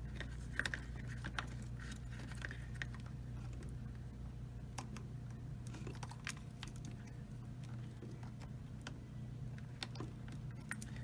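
Scattered small plastic clicks and rattles of wire connectors and wiring being handled and fitted onto a dishwasher's spray arm motor, over a steady low hum.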